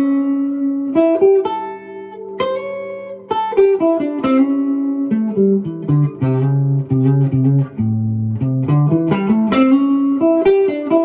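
Guitar playing a single-note blues phrase in A, hammering on from the minor third to the major third, the move that gives a major blues its sound.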